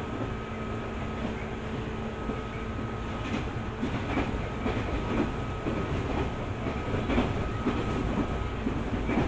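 JR 205 series 600-subseries electric train running on the line: a steady rumble with a faint constant hum. From about three seconds in, the wheels knock over rail joints several times at irregular spacing.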